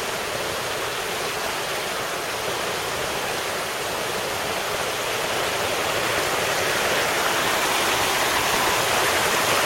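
Creek water rushing steadily past a flood-damaged cinder-block dam, growing a little louder toward the end.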